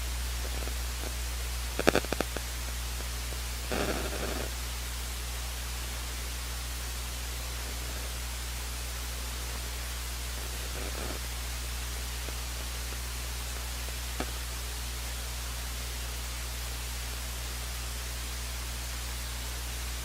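Steady hiss with a low electrical hum from an open audio line. A quick cluster of clicks comes about two seconds in, then a short rustle about four seconds in and a single faint click later on.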